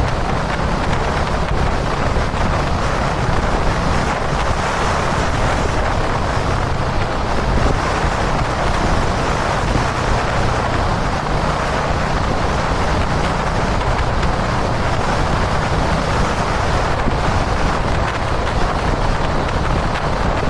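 Dominar 400 motorcycle's single-cylinder engine running steadily at highway cruising speed, mixed with heavy wind rush on the microphone. It holds an even, unchanging drone with no revving or gear changes.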